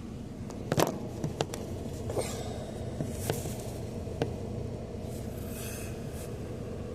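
A handful of sharp clicks and knocks, the loudest a little under a second in, with a few short rustles, over a steady low hum.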